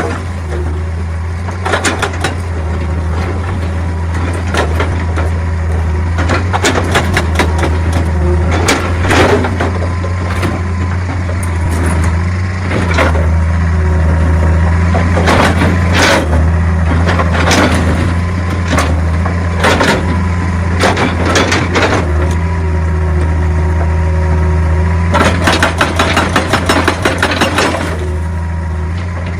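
Excavator's diesel engine running steadily under load, with scattered sharp knocks and cracks of rock being struck and moved. A fast, even rattle comes in near the start and again over the last few seconds.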